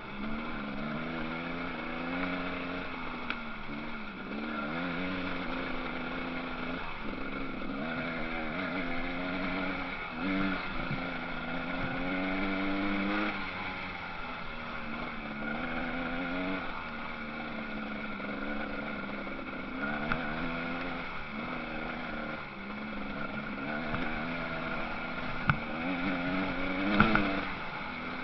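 Motocross bike engines revving up and down as they race, the pitch rising and falling again and again, with two sharp knocks near the end.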